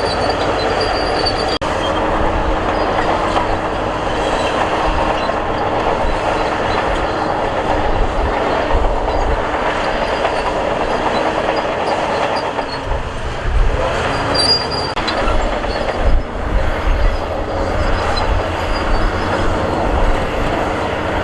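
Crawler bulldozer at work: diesel engine running under load while its steel tracks clank and squeal, a steady dense clatter.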